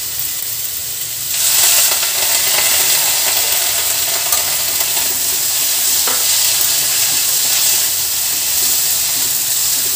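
Vegetables sizzling in oil in a hot iron kadhai. A little over a second in, the sizzle jumps louder as vinegar hits the pan. The stir-fry is then tossed with a wooden spatula.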